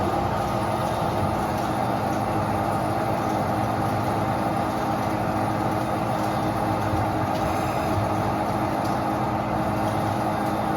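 Behringer HBP530A horizontal band saw running, its machinery starting at once and then holding a steady, even hum with a low tone underneath.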